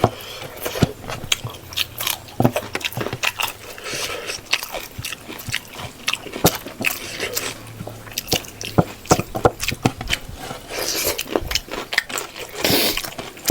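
Close-miked chewing and lip-smacking of a mouthful of rice and pork in gravy, with many small, irregular wet mouth clicks.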